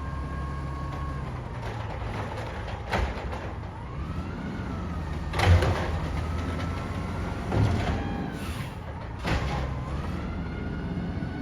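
Garbage truck engine running under a hydraulic whine that rises and falls, with four sharp bangs a couple of seconds apart, the loudest in the middle.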